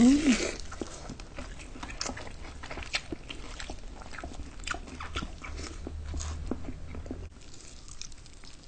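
Close-miked mukbang eating sounds: two people biting into and chewing meat by hand, with many short wet mouth clicks and smacks over a low steady hum that stops near the end.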